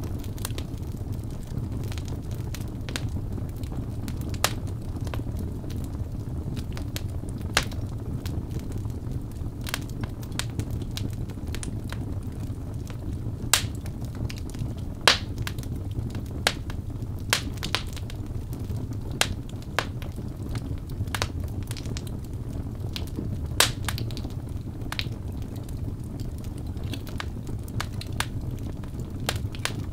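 Birchwood fire burning in a fireplace: a steady low rumble of the flames with irregular sharp crackles and pops from the wood, a few louder pops near the middle.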